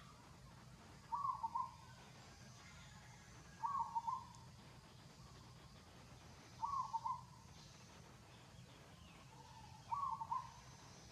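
A bird calling four times, roughly every three seconds; each call is a short phrase of three or four quick notes, over a faint steady low background hum.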